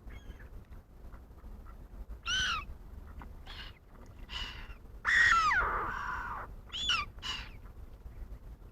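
Wild birds calling: about six loud, harsh calls that each bend in pitch. The longest and loudest, about halfway through, slides steeply downward.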